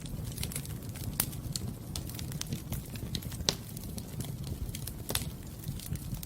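Wood fire burning in a fireplace: a steady low rumble with irregular sharp crackles and pops, three of them louder, about a second, three and a half seconds and five seconds in.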